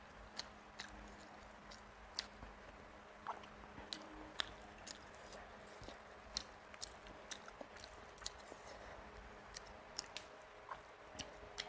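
Faint close-miked chewing of rice and crumbly fish jhuri, with scattered short wet mouth clicks and smacks, a few each second and irregular.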